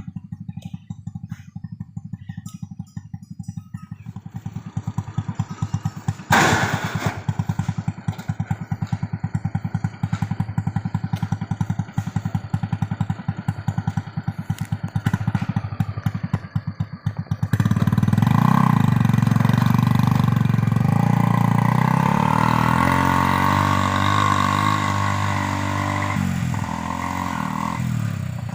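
Single-cylinder Honda Revo motorcycle engine in a homemade vehicle, running at a low, steady pace with one sharp knock about six seconds in. About two-thirds of the way through it revs up much louder, then eases off near the end.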